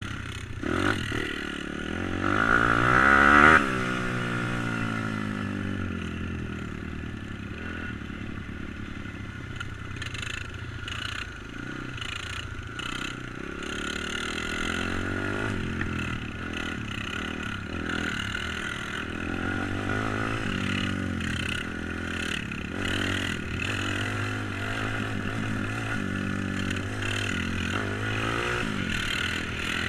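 Tuned YX140 four-stroke single in a pit bike being ridden: the engine revs up hard to a loud peak a few seconds in, then keeps running with its pitch rising and falling as the rider rolls the throttle on and off.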